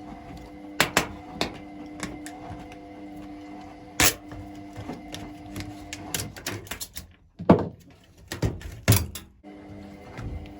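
Scattered clicks and knocks of hands and tools working on a washing machine's panels and fittings, over a steady hum. The hum stops about seven seconds in, followed by a run of louder knocks.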